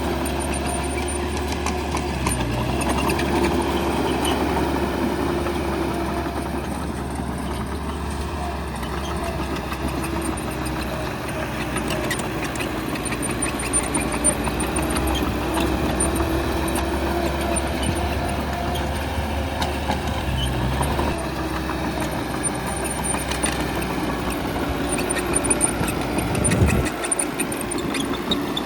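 Bulldozer's diesel engine running steadily under work, its pitch rising and falling a little, with scattered small knocks and one heavier thump near the end.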